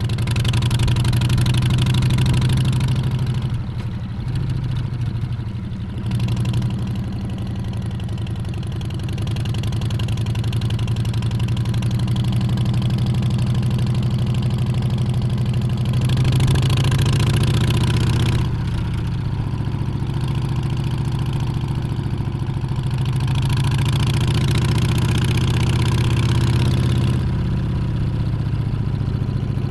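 Harley-Davidson Street Bob's Milwaukee-Eight 114 V-twin engine running as the bike is ridden, its pitch and loudness rising and easing with the throttle, backing off briefly three times and pulling up again about two thirds of the way through.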